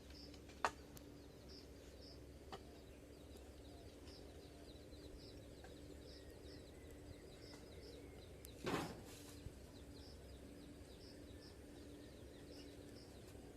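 Faint outdoor ambience of small birds chirping over and over, with a steady low hum underneath. A sharp click sounds near the start, and a short louder noise, the loudest thing here, about nine seconds in.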